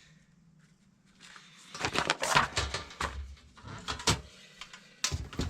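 Handling noise from the parts of a folding welding booth being moved about: irregular rustling and light knocks, with one sharp click about four seconds in.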